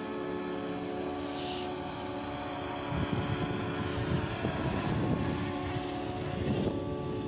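Parrot Anafi quadcopter drone's propellers whining steadily as it flies its automatic return-to-home descent. Gusts of wind buffet the microphone from about three seconds in.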